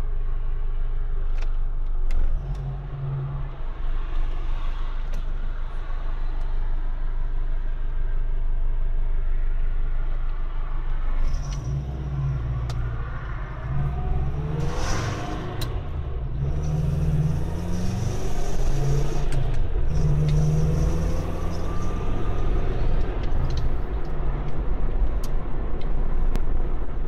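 1970 Saab 96's V4 engine running through a new Jetex exhaust with a steady low rumble, rising in pitch as it is revved up a few times in the middle.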